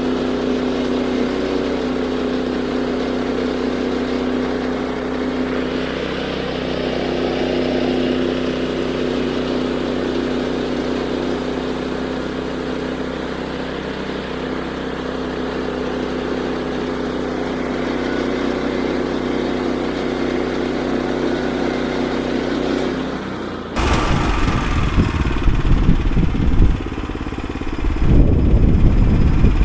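The 9.5 hp gas engine of a Woodland Mills HM122 band sawmill runs at a steady speed. Near the end its even note gives way to loud, irregular low rumbling.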